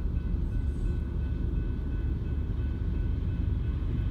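Slow freight train of tank cars rolling through a level crossing: a steady low rumble of steel wheels on the rails.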